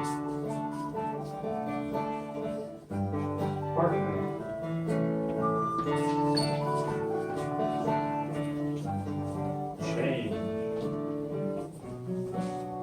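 Live folk trio of bouzouki, fiddle and recorder playing a Welsh traditional waltz tune, with strummed bouzouki chords under sustained melody notes.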